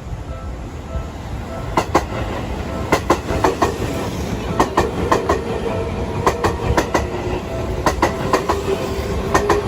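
Train passing, its wheels clacking over rail joints in repeated clusters of sharp clicks over a steady rumble. A steady tone runs underneath from about four seconds in.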